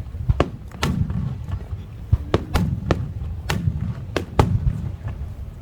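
Aerial firework shells bursting in a rapid, irregular series of sharp bangs, some in quick pairs, each followed by a rumbling low echo.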